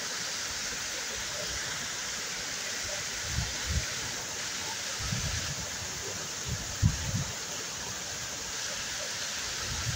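Waterfall in a forest, its water rushing steadily. A few short low bumps break in, the loudest about seven seconds in.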